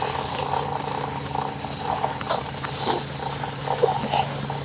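Petrol being poured from a can into a dirt bike's fuel tank, a steady hissing splash with a few small knocks.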